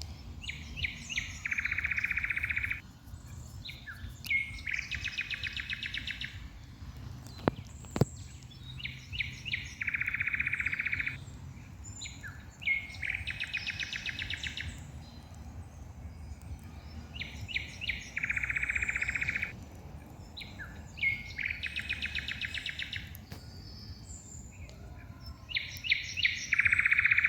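A songbird singing the same phrase over and over, about every four seconds: a few short high notes leading into a buzzy trill. The singing runs over a steady low background rumble, with one sharp crack about eight seconds in.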